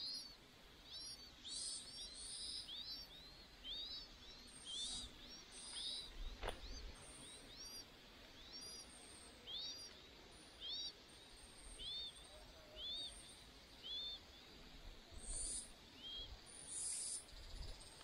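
Faint, high, arched bird chirps repeated about once a second, often in pairs, with a single sharp tap about six and a half seconds in.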